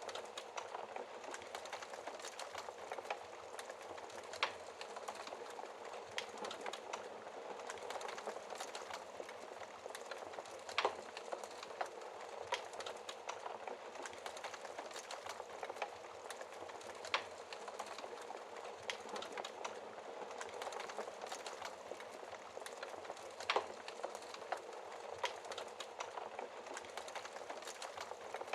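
Wood fire crackling in a fireplace: a steady hiss with dense small crackles and a few louder pops spread through.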